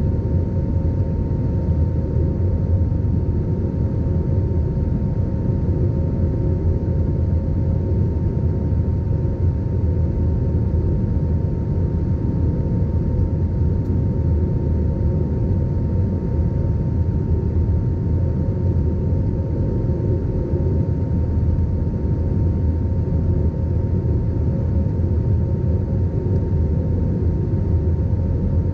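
Steady cabin noise of an Airbus A320 in flight: a deep rumble of engines and airflow with two steady whining tones running through it.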